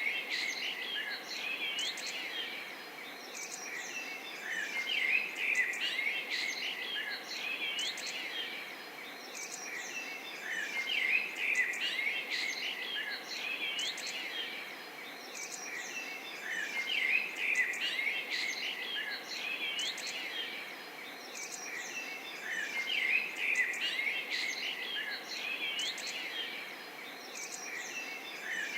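Many small birds chirping and whistling together over a steady background hiss, the chorus swelling every six seconds or so in a repeating pattern.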